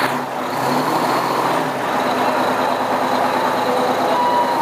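Fire engine's engine idling steadily while the truck is held in neutral and pulled by hand.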